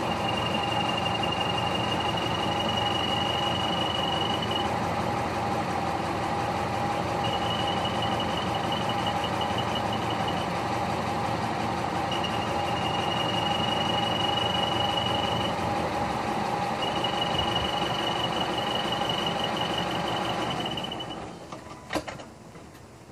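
Subaru Legacy B4 running at idle, with a high-pitched whine that comes and goes in stretches of a few seconds: the abnormal noise that the owner suspects comes from the clutch, since it stops when the clutch pedal is pressed. Near the end the running sound drops away and a couple of sharp clicks follow.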